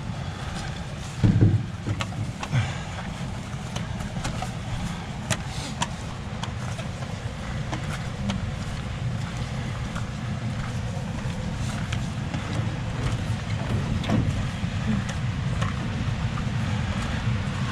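Low, steady rumble of wind buffeting the microphone, with scattered light clicks and a louder knock about a second in.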